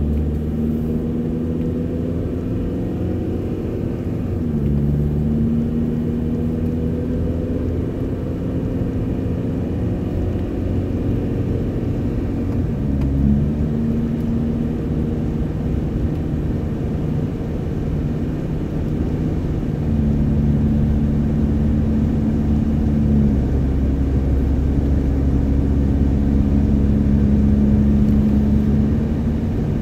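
Car driving on the road, heard from inside the cabin: a steady engine hum and road noise whose pitch steps a few times as the speed changes. No grinding from the wheel: the missing brake caliper bracket bolt has been put back.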